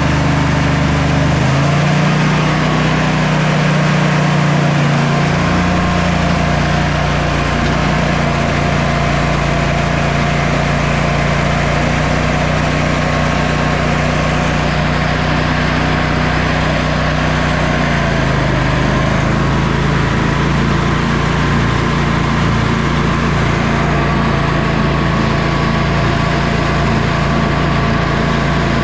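John Deere Sabre lawn tractor's twin-cylinder engine running steadily, firing on both cylinders after a clogged carburetor port was cleared. Engine speed rises about two seconds in and settles slightly lower about eighteen seconds in.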